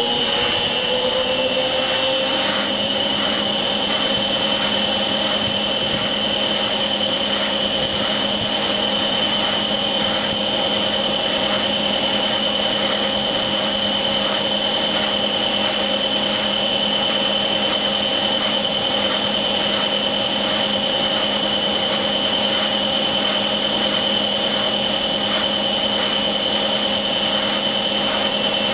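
Machine unit No. 1 running under load, with a steady high whine and several lower steady tones over a faint regular pulsing. The lower tones rise slightly in pitch over the first two seconds and then hold. The uploader reports this running noise between 30% and 60% load as abnormal.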